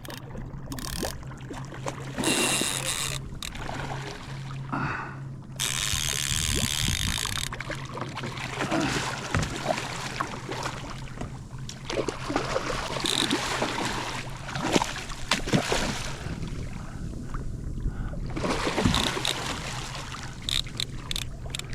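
Water splashing and sloshing around a kayak, with scattered knocks and rattles of gear on the hull, during the fight with a hooked dorado. Two short hissing rushes come a couple of seconds and about six seconds in, over a steady low hum.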